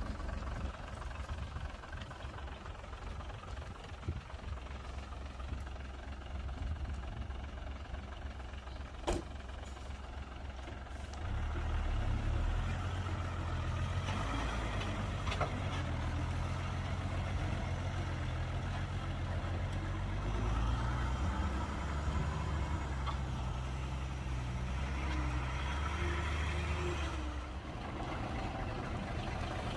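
Heavy diesel engine of earthmoving machinery running with a low drone; about eleven seconds in it grows louder and heavier, then eases off again near the end. A single sharp knock sounds about nine seconds in.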